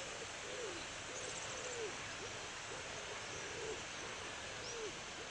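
A bird giving a run of short, low hooting notes, about two a second, over a steady hiss.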